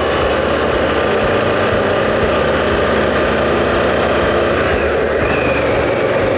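Harley-Davidson Pan America's Revolution Max 1250 V-twin engine running steadily at road speed, mixed with the steady rush of wind over the microphone.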